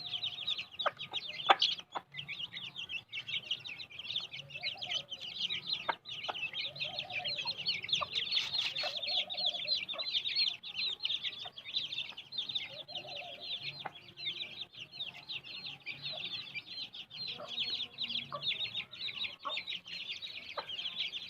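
A brood of Aseel chicks peeping continuously in quick, high-pitched cheeps, with the hen's lower clucks coming in every second or two and a few sharp taps.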